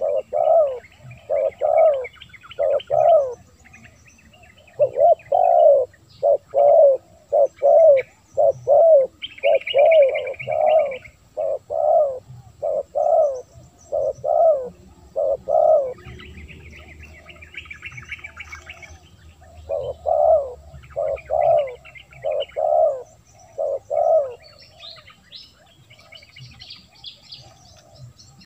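Spotted dove cooing in repeated runs of short low coos, pausing briefly about four seconds in and for a few seconds after the middle. Higher chirping from other birds comes in at times, most around ten seconds in, in the pause after the middle, and near the end.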